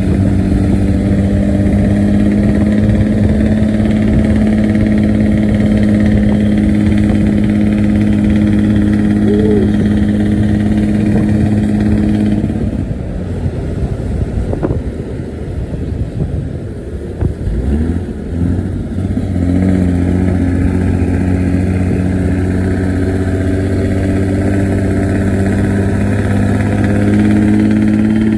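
Bus engine running through its exhaust with a steady, humming note. About halfway through, the steady note breaks into an uneven rumble for several seconds, then returns and climbs slightly in pitch near the end.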